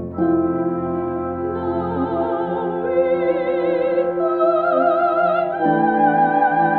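Soprano singing sustained notes with wide vibrato over an orchestra's held chords; the voice enters about a second and a half in and moves to a new note near the end.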